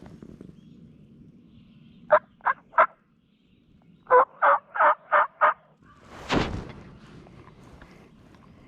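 Turkey yelping: three short, loud notes, a pause, then a run of five more. A brief burst of noise follows about six seconds in.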